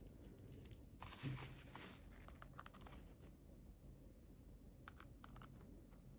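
Faint handling of toy packaging: a brief rustle about a second in, then scattered light clicks.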